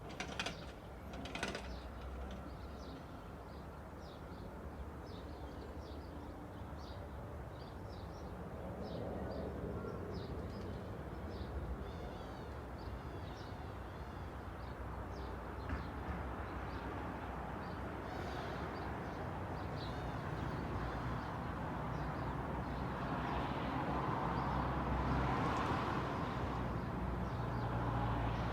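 Small birds chirping in quick, repeated short calls over a steady low hum of traffic. A car approaches and passes in the second half, its engine and tyre noise swelling to the loudest point a few seconds before the end.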